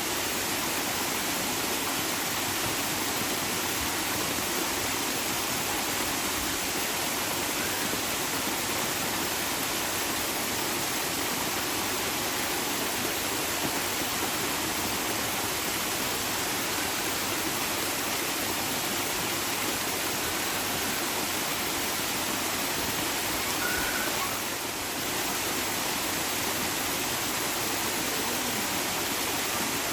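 Steady rush of flowing water, even and unbroken, with a brief dip in level about 25 seconds in.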